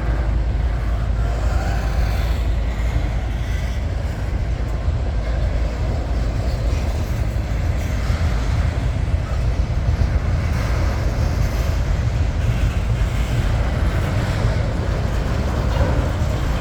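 Norfolk Southern freight train rolling by, a steady low rumble of the cars and wheels on the track.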